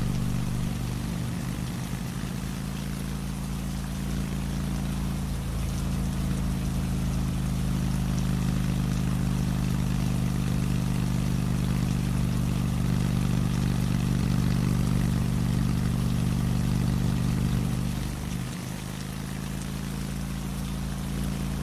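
Old motorcycle engine running steadily, with rain falling; the engine note dips briefly near the end.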